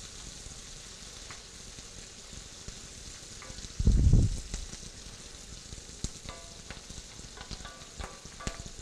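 Chopped onions sizzling in oil in a cast-iron skillet as they are stirred with a wooden spoon, with short scrapes and clicks of the spoon against the pan. About four seconds in there is a dull thump, the loudest sound here.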